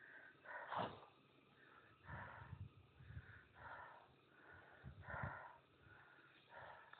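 A hiker's faint, heavy breathing: soft puffs of breath about once a second, with a few low thuds mixed in.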